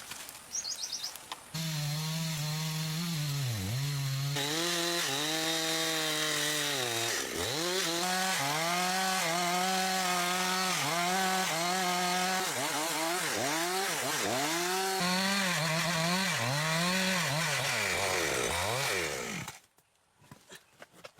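Chainsaw cutting through large timber. The engine starts up loud about a second and a half in, its pitch dipping again and again as the chain bites into the wood, then stops abruptly near the end.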